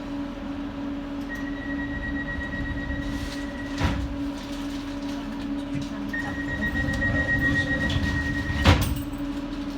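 Docklands Light Railway train standing at a platform with a steady electrical hum. The high door-closing warning tone sounds and ends in a thump as the sliding doors shut about four seconds in, then sounds again and ends in a louder thump near the end.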